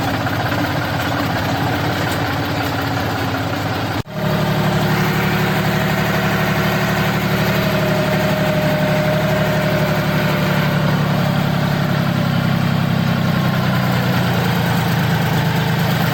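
Farm tractor's diesel engine running steadily, with a short break about four seconds in, after which it is louder and deeper.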